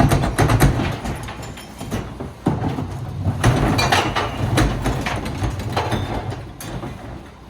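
Garbage truck engine running under load, with several sharp metallic bangs and clatter over it; the engine falls quieter near the end.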